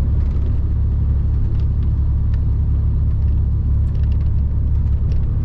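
Steady low rumble heard inside a truck cab.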